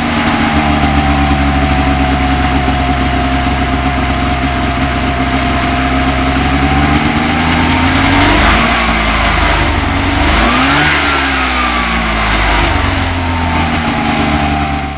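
Rotax 503 two-cylinder two-stroke snowmobile engine running on a start-and-run test, its revs sagging slowly at first. It is then blipped up twice, once past the halfway point and again more sharply about eleven seconds in, each time dropping back toward idle.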